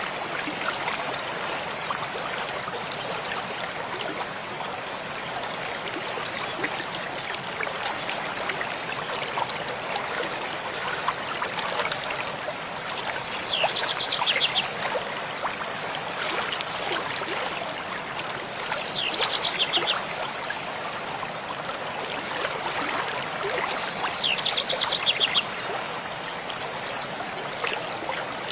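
A mountain stream flowing steadily. A songbird sings three short trilled phrases, about five seconds apart, in the second half.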